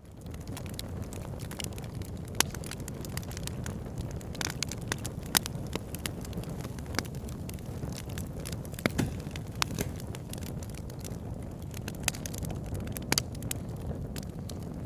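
Fire burning in a fireplace: a steady low rumble of flames with frequent sharp crackles and pops, a few of them louder than the rest.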